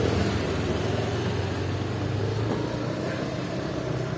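A motor vehicle engine running at a steady drone under an even rush of road and wind noise. The drone eases off slightly about two and a half seconds in.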